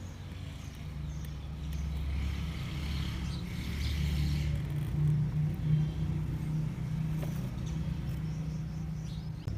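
Motor of a radio-controlled scale truck running during a winch recovery: a low steady hum that shifts pitch in small steps, with faint light ticks.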